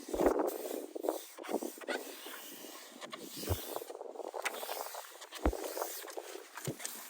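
Rustling and scraping with a few light knocks, from hands pressing an adhesive anti-scuff strip onto a car's door sill.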